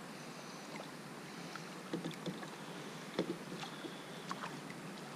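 Faint water and kayak-hull sounds: soft lapping with a few small scattered knocks and splashes as a trout is handled beside a kayak.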